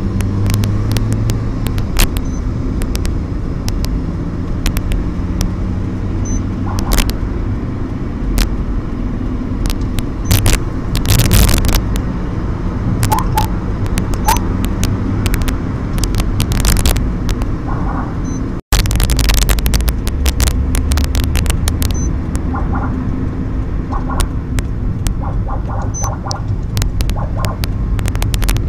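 Motor vehicle engines running with a steady low rumble and road noise, with scattered clicks and knocks. There is a brief dropout about two-thirds of the way through.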